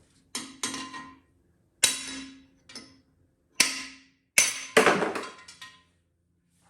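Hammer blows on a 36-inch socket extension, driving out the rear cam plug of a Chevrolet LT1 5.7L small-block engine block. About eight to ten sharp metal-on-metal strikes at an uneven pace, each ringing briefly, with a quick cluster near the end.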